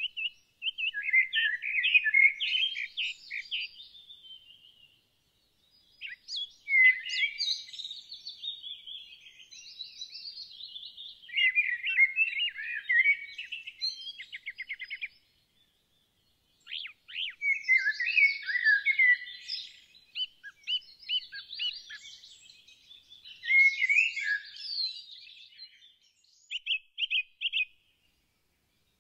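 Songbird singing: bouts of fast, varied twittering and short trills a few seconds long, separated by brief pauses.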